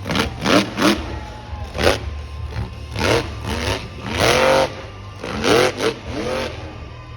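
Vehicle engine revved in about ten short blips, each rising and falling in pitch, over a steady low idle.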